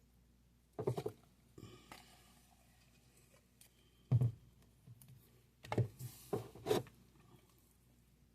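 A utensil knocking and scraping against a cup and jar while chunky peanut butter is scooped into the cup. There is a short cluster about a second in, a loud knock about four seconds in, and several quick knocks between six and seven seconds.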